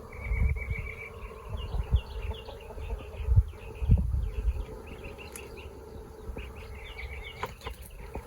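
Honeybee colony humming around an opened hive, a steady drone of many wingbeats. The bees are agitated, with the smoker out. Short high chirps and a few low thumps sound through it.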